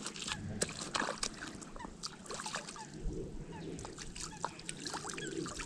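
Water lapping and trickling at the shore, with many small clicks and ticks scattered throughout.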